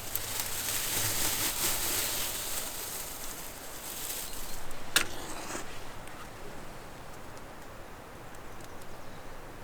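Stones being handled and stacked into a furnace wall: rustling and scraping for the first few seconds, then one sharp stone-on-stone click about five seconds in, quieter after.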